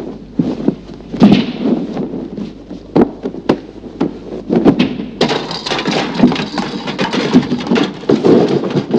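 A run of irregular knocks and thumps, like objects being handled and bumped about, with a change in the sound about five seconds in.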